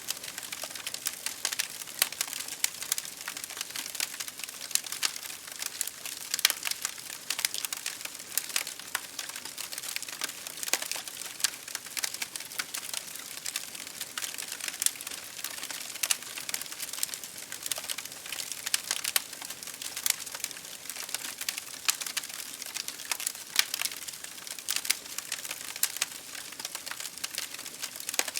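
Wood fire crackling in a fireplace, mixed with rain pattering on a window. It is a dense, unbroken stream of small sharp pops and ticks over a soft, steady hiss.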